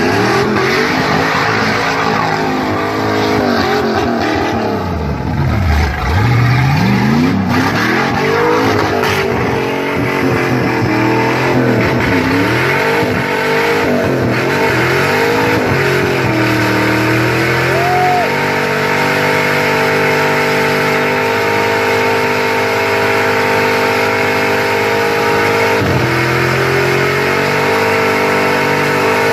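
A car engine revving up and down, then held at steady high revs through a burnout, with the wheels spinning on the wet track. The revs drop briefly near the end before climbing back.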